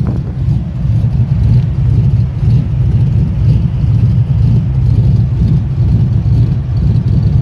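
5.3-litre V8 with a TSP 212/218 .600-lift camshaft idling roughly. The idle is loud, low and uneven, with a choppy, pulsing beat.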